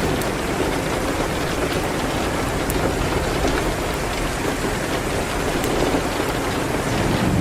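Steady, dense rain hitting a window, with a few faint sharp ticks scattered through it.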